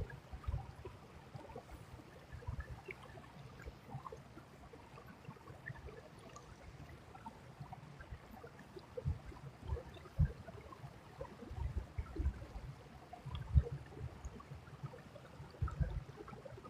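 Small creek trickling and gurgling faintly over stones, with irregular low thumps now and then, loudest near the end.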